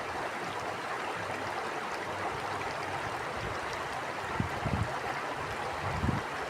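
Stream water flowing in a steady rush, with a few short low gusts of wind on the microphone in the second half.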